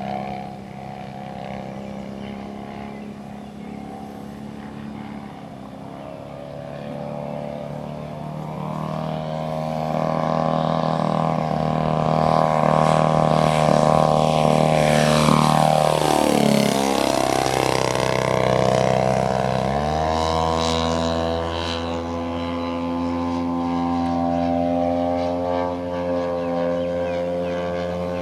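Engine and propeller of a one-third-scale radio-controlled Cessna 182 model in flight, a steady engine drone that grows louder towards the middle as the plane passes. About twenty seconds in, the engine note rises sharply and holds higher.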